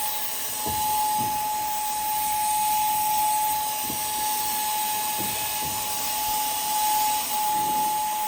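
A machine running with a steady hiss and a constant high whine, with a few faint knocks.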